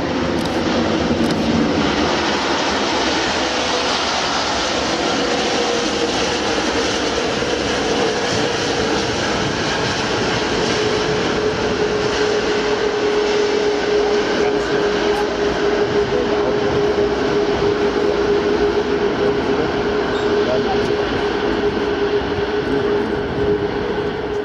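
Loud, steady jet noise from an Airbus A340-500's four Rolls-Royce Trent 500 turbofans. A whining tone within it sinks slightly in pitch over the first ten seconds and then holds, and the noise drops away at the very end.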